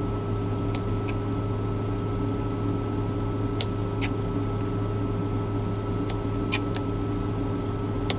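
Steady low mechanical hum of the truck's machinery in the cab, with a few faint light clicks now and then.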